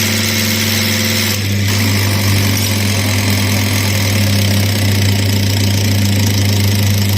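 Tractor diesel engine idling steadily on its freshly repaired fuel injection pump.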